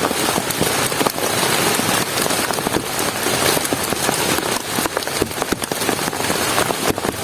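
Heavy rain falling steadily, with many close drops striking a surface.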